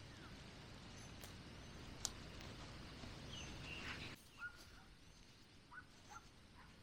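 Quiet outdoor ambience with a few faint, short bird calls. The background hiss drops away about four seconds in.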